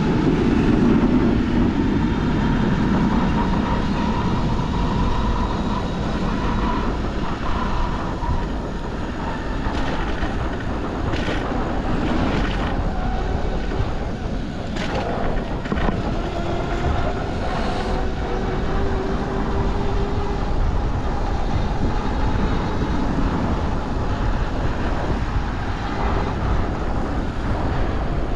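Wind rushing over a bicycle-mounted microphone with city street traffic around it. A few faint whining tones come and go, and there are occasional light clicks.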